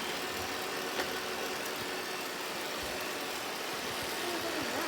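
Robot vacuum cleaner running with a steady whir, with a single sharp click about a second in.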